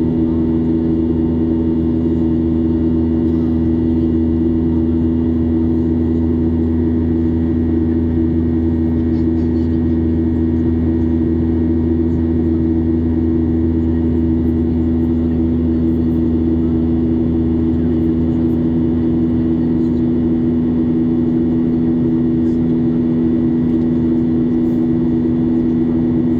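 Boeing 737-800's CFM56-7B turbofan engines droning steadily, heard inside the passenger cabin as an even hum.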